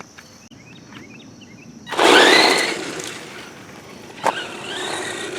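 Brushed electric motor of a Redcat Volcano EPX RC monster truck whining up as the truck accelerates hard about two seconds in, with tyre noise, then easing off. After a click, it revs up again near the end.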